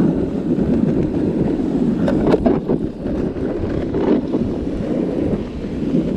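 Wind rushing over the microphone as a sled is towed at speed across snow, a steady low rumbling rush, with a few brief knocks about two seconds in and again near four seconds.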